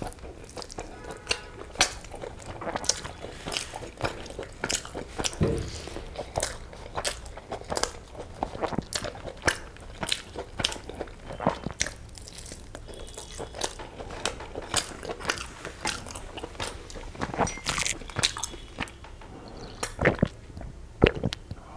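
Close-miked eating: chewing, biting and wet mouth clicks and smacks from a mouthful of egg biryani and chicken curry, coming in quick irregular bursts. Near the end come a few swallows of pomegranate juice from a glass.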